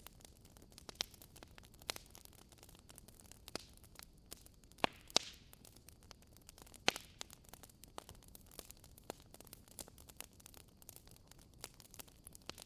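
Wood fire in a fireplace crackling: burning logs give irregular sharp pops and snaps over a faint hiss, with the loudest pops about five and seven seconds in.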